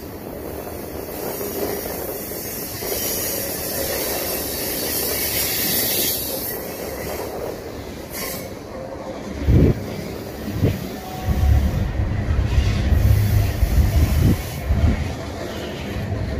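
Freight cars of a long manifest train rolling past on a curve, the wheels squealing high in the first half. From about ten seconds in, heavy low thumps and rumble take over.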